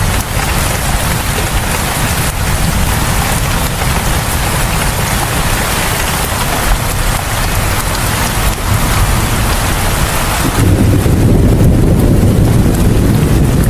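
Steady rain falling, a dense even hiss. About ten seconds in it changes abruptly to a louder low rumble with less hiss.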